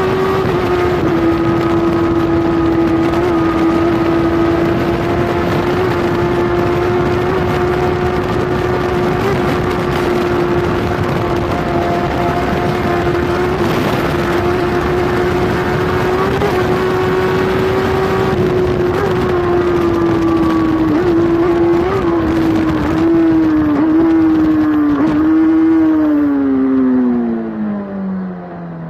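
Kawasaki superbike's inline-four engine at high revs, its note held steady for a long stretch, then several short blips as it changes down and the pitch falls away as the bike slows near the end. Rushing wind noise sits under it on the onboard microphone.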